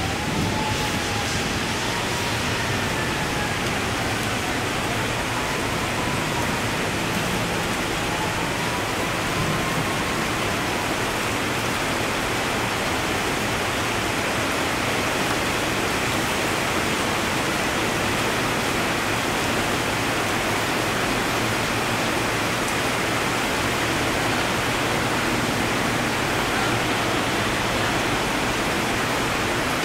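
Heavy rain pouring steadily, a dense, even hiss from a thunderstorm downpour.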